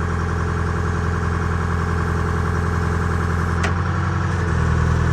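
Forklift engine idling steadily, with a sharp click about three and a half seconds in, after which the engine note changes slightly.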